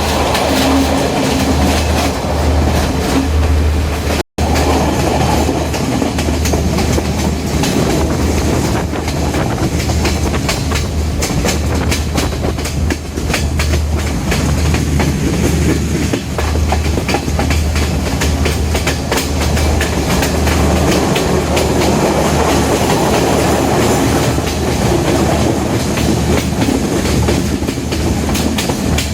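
Intercity diesel train running at speed, heard from inside a passenger coach: a steady deep rumble of the running gear, with the rattle and clicks of the wheels on the track.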